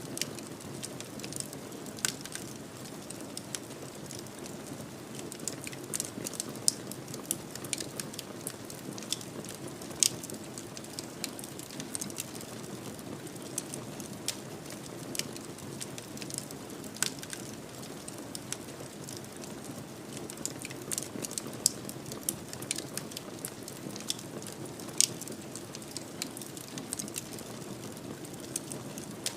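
Fire in a fireplace crackling: a steady low hiss with constant small snaps and a few louder pops, irregularly spaced.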